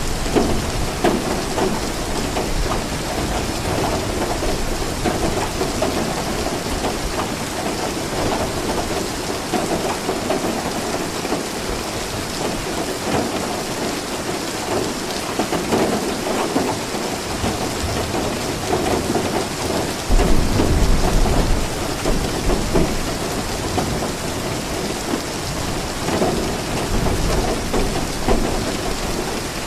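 Steady rainfall with thunder rumbling; a louder, deep roll of thunder comes about two-thirds of the way in.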